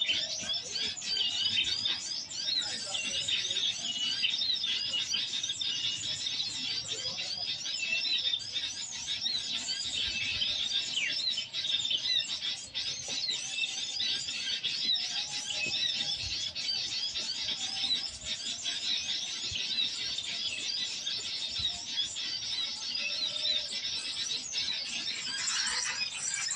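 Small birds chirping and twittering, many quick high-pitched calls overlapping without a break.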